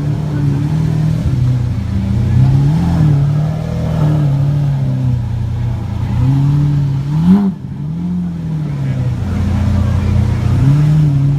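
Car engine idling with several brief rises in revs, the sharpest a quick blip about seven seconds in that drops off suddenly.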